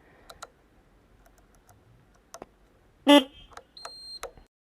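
A few light switch clicks on a motorcycle's handlebar controls, then a short honk of the motorcycle's horn about three seconds in, followed by a brief high-pitched beep.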